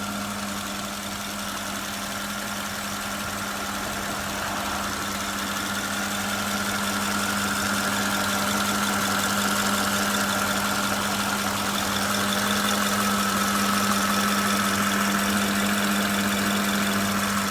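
2008 Porsche Cayenne Turbo's 4.8 V8 idling with a steady low hum, which the owner likens to a power steering pump noise. A fainter, higher whine grows a little louder about halfway through.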